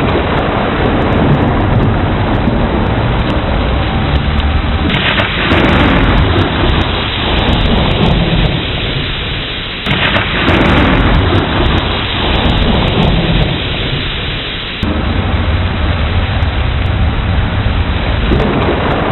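Thunderstorm: steady heavy rain with deep, rolling thunder rumbling beneath it. The sound shifts abruptly about every five seconds.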